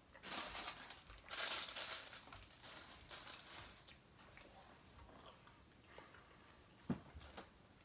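Close-up crunching and chewing of food, loudest in two spells in the first couple of seconds, then quieter crackles as the meal is handled. A single sharp tap or knock about seven seconds in.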